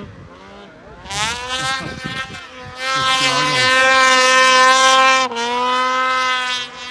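Snowmobile engine revving hard: the pitch climbs about a second in, holds at high revs, dips a little about five seconds in and runs on steadily, then fades near the end.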